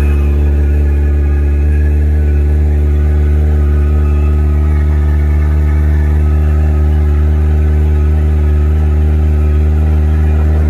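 Kawasaki Ninja ZX-4RR's 399 cc inline-four with the stock exhaust idling steadily on a cold start, the engine note holding one even pitch with no revs.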